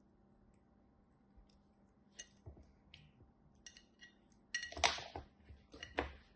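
A series of small clinks and taps of hard objects knocking together, several with a brief ring. The loudest cluster comes about two-thirds of the way through, with one more sharp tap near the end.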